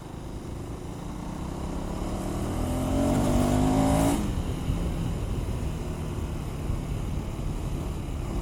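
KTM 390 Adventure's single-cylinder engine under acceleration, its pitch rising for about two seconds before the throttle snaps shut about four seconds in for a gear change. After that it runs steadily, with wind noise over the helmet microphone.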